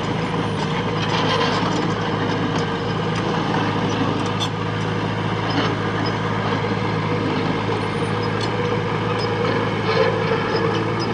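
Diesel engine of heavy construction machinery running steadily under load, with scattered knocks and clanks over it.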